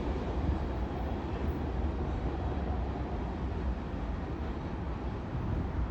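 Manifest freight train rolling past, a steady low rumble of wheels on rail.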